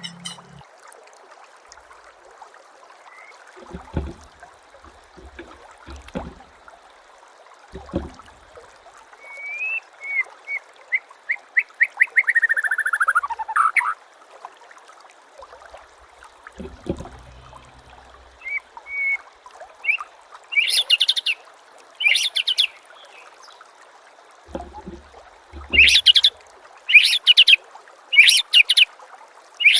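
Songbird song from a masteran training recording: a fast run of repeated chirping notes that drops in pitch near its end, then a series of loud, sharp calls in the second half. A few low thumps are scattered through it, over a faint steady hiss.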